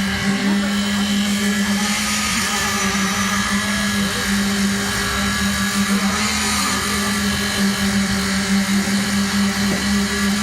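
Truck-mounted concrete mixer pump running steadily while pumping concrete, a continuous engine-driven drone with a strong low hum.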